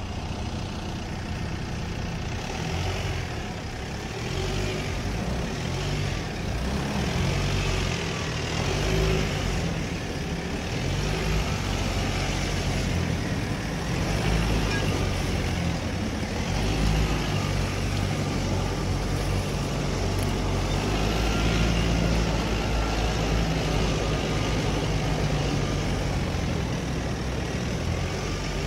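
Off-road 4x4 engines running on a dirt trail: a steady low engine rumble whose pitch rises and falls a little as the revs change.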